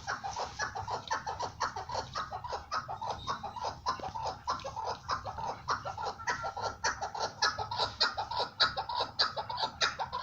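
Chukar partridge calling, a fast unbroken run of short repeated notes, about five a second, that breaks off abruptly at the end.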